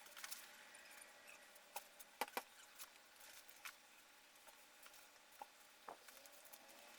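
Near silence broken by faint, scattered small clicks and taps of hand work, about eight in all, the loudest a pair about two seconds in.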